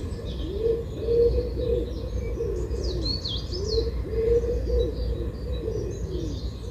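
Birds calling: low cooing notes repeated over and over, with higher chirps and twitters over them.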